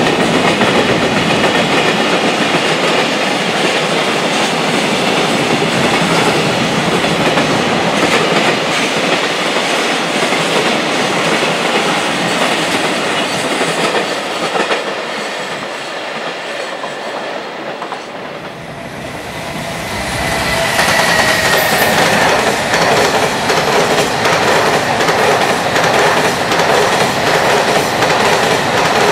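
Freight train passing at speed, its wagon wheels clattering over the rail joints in a steady clickety-clack. The noise eases off about two-thirds of the way through, then a loud passage of wheels over joints starts again.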